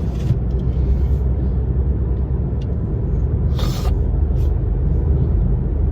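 Steady low rumble of a car's engine and road noise heard inside the cabin while driving, with a brief hiss a little past halfway.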